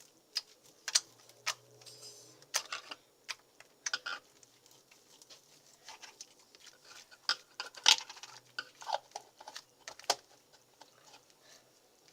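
Slime being squeezed and worked in the hands, giving irregular wet clicks and pops, a few of them much louder.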